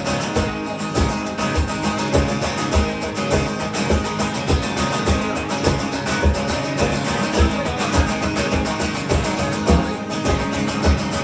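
Live acoustic guitar music: strummed guitars playing an instrumental passage over a steady low beat about twice a second.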